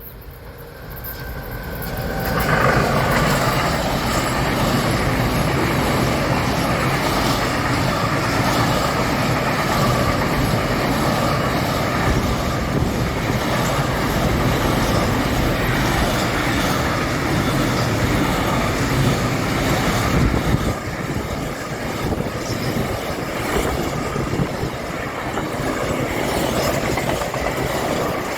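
A train passing close by on the line: the rolling wheel-and-rail noise builds over the first two seconds, then holds loud and steady, easing a little about two-thirds of the way through.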